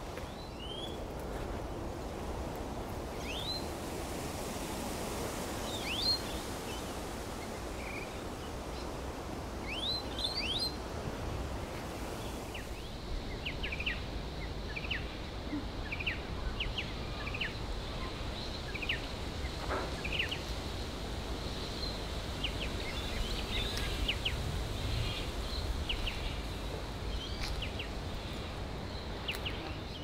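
Wild birds calling in short rising chirps over steady low background noise. About 13 seconds in, the calls turn into a run of quick, repeated short notes.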